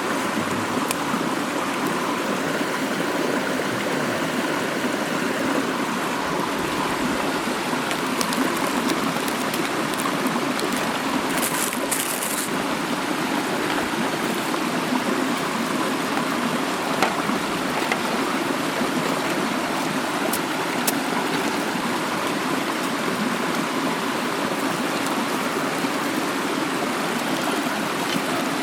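Mountain stream running steadily. A few faint clicks and a brief high hiss about twelve seconds in sound over it.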